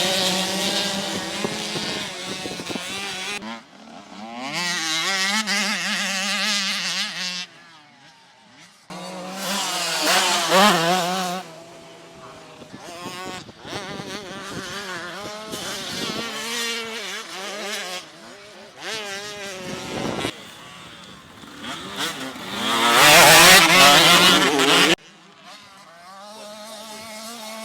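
Motocross bikes racing past, their engines revving up and down through the throttle and gear changes. It comes as a series of short passes cut one after another, with a loud close pass near the end that stops abruptly.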